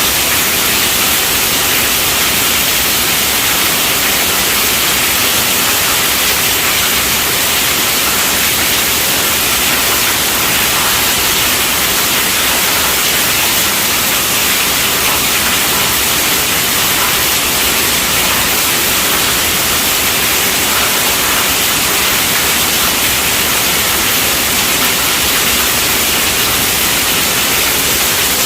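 Heavy rain falling on a tent roof, a steady, dense hiss with no change in intensity.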